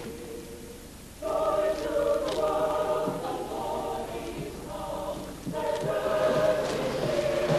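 Choir singing slow, held notes, coming in about a second in and pausing briefly twice.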